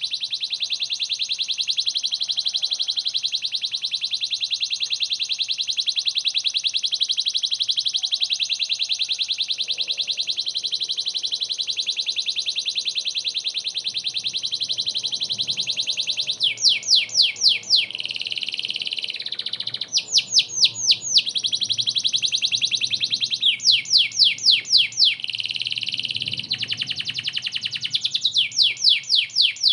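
Domestic canary singing without pause: a long, very fast rolling trill for the first half, then short bursts of quick descending notes about every three to four seconds.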